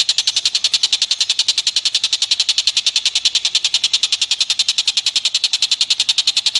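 A rapid, even run of high-pitched clicking calls, about eleven a second, going on steadily: a recorded animal chattering call used as masteran song-training audio.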